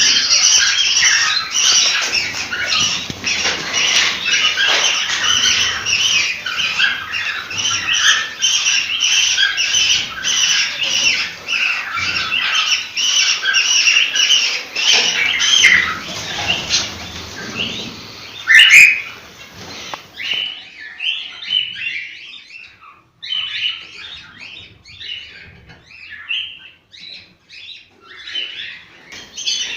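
A group of cockatiels chirping and calling, a dense, continuous chatter. About eighteen seconds in, a loud single call stands out, and after that the chirps thin out and come more sparsely.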